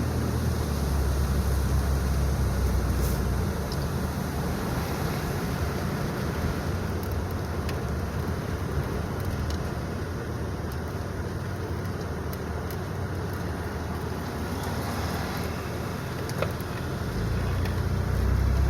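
Car on the move: a steady low rumble of engine and tyre noise, weaker through the middle and stronger again near the end.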